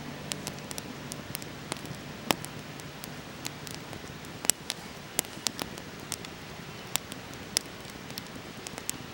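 Wood campfire crackling, with irregular sharp pops over a soft steady hiss of burning.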